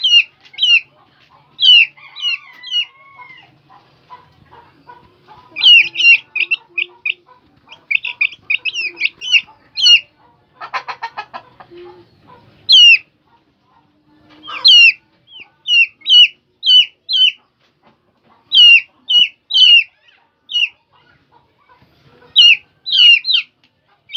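Four-week-old Aseel chicks peeping: short, high calls that each fall in pitch, coming in quick runs of two to five with short pauses between, and a brief buzzy rasp about halfway through.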